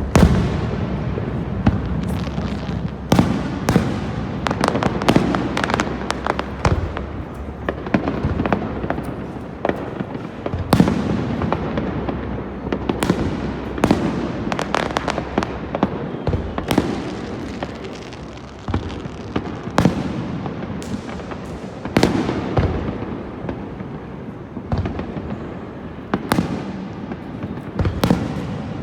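Aerial fireworks bursting overhead: a dense barrage of sharp bangs, one after another, each with an echoing tail.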